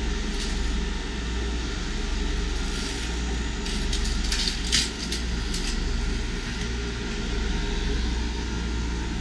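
Mabru 5,000 BTU 12 V DC water-cooled heat pump running: a steady drone of its compressor and blower fan with a low hum. A few short clicks and rustles come near the middle.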